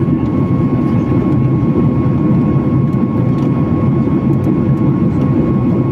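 Airliner cabin noise from the jet engines and airflow in flight: a steady low drone with a faint steady whine on top.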